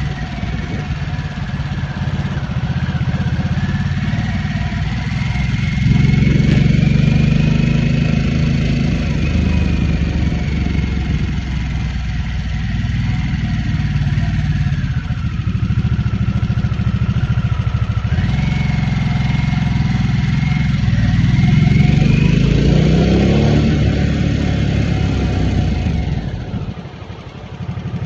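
2023 Harley-Davidson Nightster's liquid-cooled V-twin running under way at cruising speed. The throttle opens about six seconds in and again about eighteen seconds in, the revs climb through a gear a little after twenty seconds, then the engine falls back off the throttle near the end.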